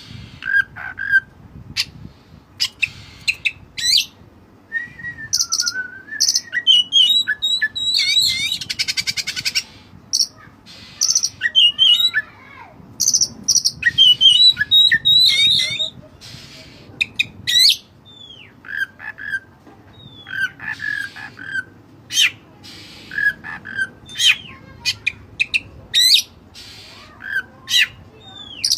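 Oriental magpie-robin (kacer) singing loudly and continuously: a varied string of clear whistles, sharp harsh notes and a fast rattling trill about eight seconds in. This is the bird's lure song, which draws rival kacers.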